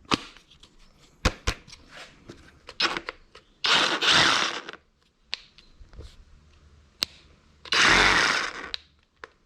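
Cordless Skil reciprocating saw triggered in two short bursts of about a second each, running free without cutting, after a few sharp handling clicks.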